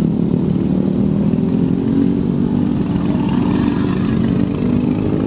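Motorcycle engine running while riding in traffic, its note climbing gradually from about two seconds in as it picks up speed.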